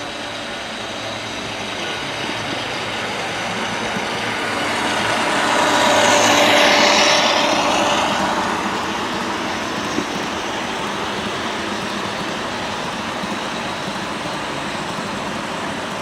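HO scale model train running past close by, its running noise swelling to a peak about six to seven seconds in and then fading. A single sharp click about ten seconds in.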